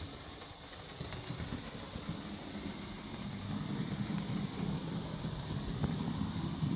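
Model railway locomotive running on the layout's track: a steady motor hum and wheel rumble that grows louder about halfway through as the train comes closer.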